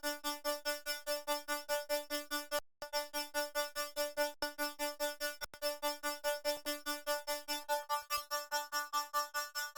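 Electronic music: a synth note repeated rapidly, about six times a second, at one steady pitch, with a brief drop-out near three seconds in.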